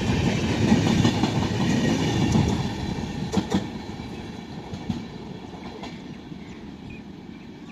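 A train running past at speed: the rumble and rattle of its wheels on the track is loud at first, then fades steadily from about two and a half seconds in, with a few sharp clicks as it recedes.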